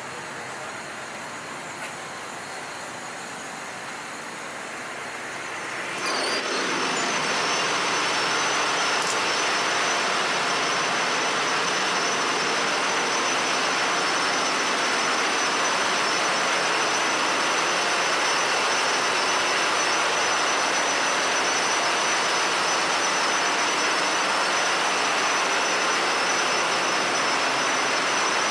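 Steady engine-room machinery noise that grows louder about six seconds in, when a steady high whine joins it.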